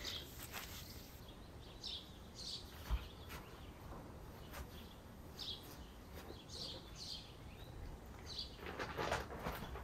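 Faint outdoor ambience with small birds chirping, short high chirps every second or so. A soft thump about three seconds in and a brief rustle near the end.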